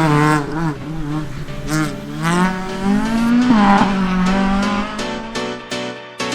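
Rally car engine revving hard, its pitch repeatedly climbing and dropping through the gears with one long rising pull in the middle. Background music with a steady beat comes in near the end.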